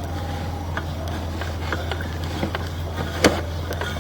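A steady low engine hum, like a vehicle idling close by, with a few faint clicks and one sharper click about three seconds in.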